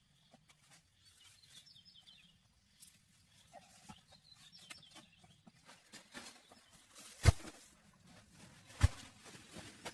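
Faint bird chirps, then two sharp knocks about a second and a half apart near the end.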